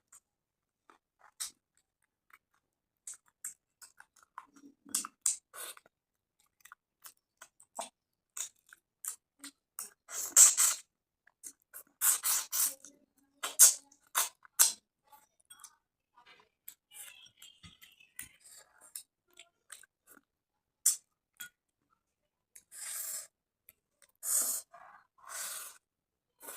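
Close-miked eating sounds of rice and fish curry: wet chewing and lip smacks with many small sharp clicks, and a few louder, longer wet mouth noises.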